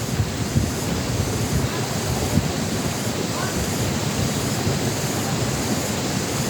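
Steady rushing noise of wind buffeting the microphone, with an irregular low rumble.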